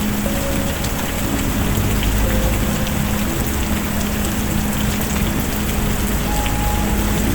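Steady rain falling, with a few faint crackles from a fireplace fire and low held tones beneath.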